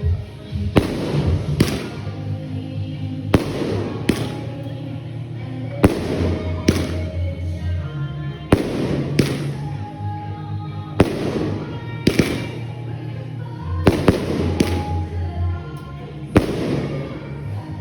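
Fireworks going off: a string of loud bangs, one every second or two, each trailing off in a crackling fizz. Music with a bass line plays underneath.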